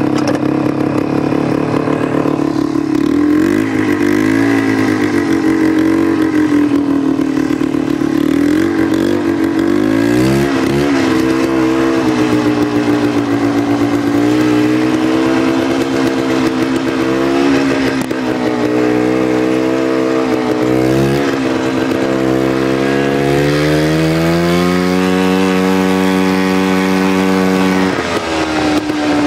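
1989 Polaris Trail Boss 250's two-stroke engine running through a homemade welded muffler, its speed rising and falling with the throttle. Near the end it climbs to a higher, steady pitch for a few seconds, then drops back.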